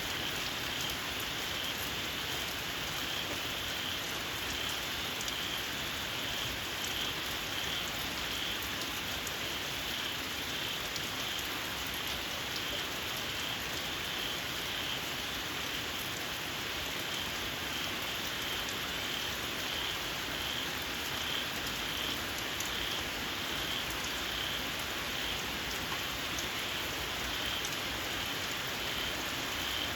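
Steady rain falling, with a chorus of small paddy frogs giving a high, pulsing call over the rain.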